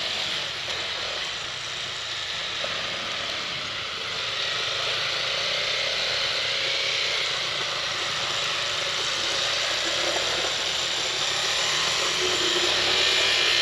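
Motorcycle on the move: steady wind and road noise on the rider's microphone with the engine's drone underneath, growing a little louder near the end.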